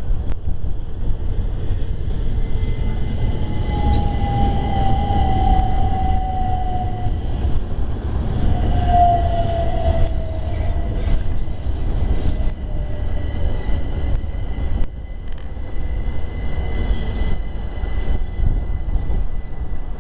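Train running at a station platform with a heavy low rumble; a falling whine sounds twice, about four and nine seconds in.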